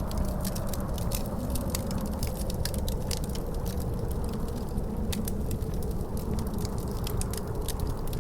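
Fireplace wood fire crackling with frequent small sharp pops, over a steady low rumble of wind with a faint drawn-out howl.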